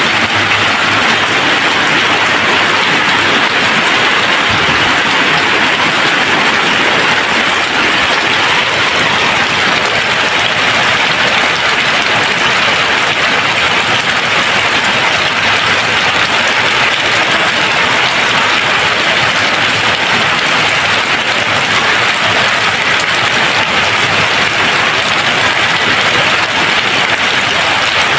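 Steady, dense rain, an even hiss of falling drops with no thunder and no breaks.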